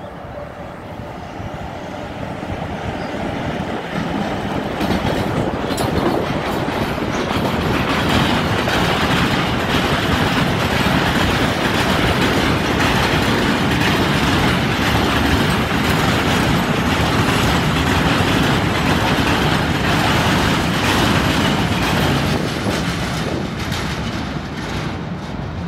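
Freight train of hooded covered wagons passing close by, its wheels rolling over the rails. The noise builds over the first several seconds as the train draws near, holds loud through the middle, and eases off near the end.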